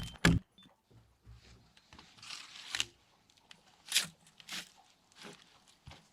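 Hand work on wood: a last chop just at the start, then scattered scraping and crunching sounds, with a sharper crack about four seconds in.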